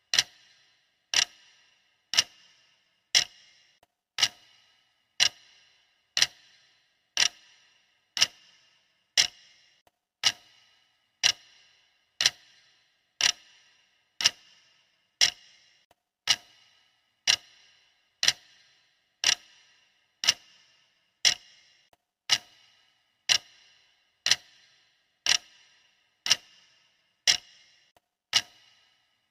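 Clock ticking sound effect, one sharp tick about every second at an even, steady pace.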